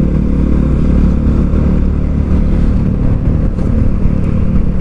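Motorcycle engine running steadily at low road speed, heard from on board the moving bike as a loud, even engine note.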